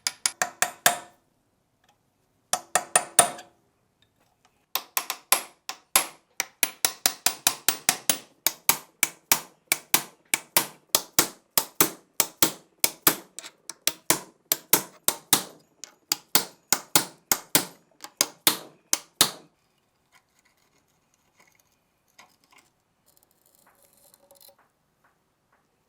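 Light metal-on-metal taps: two short bursts, then a steady run of strikes at about three a second that stops abruptly, leaving only faint small clinks.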